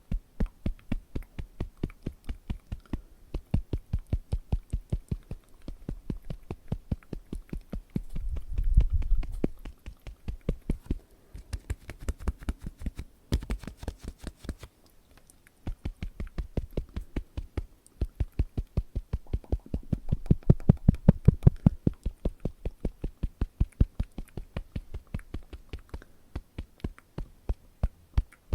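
Rapid, light fingertip tapping close to the microphone, about five or six taps a second, with a louder rumbling stretch about eight seconds in and short pauses near the middle.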